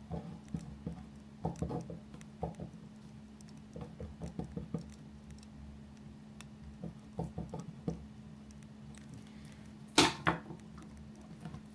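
Quiet desk sounds of someone studying: scattered bursts of light pen-on-paper taps and scratches over a steady low hum, with one sharp click about ten seconds in.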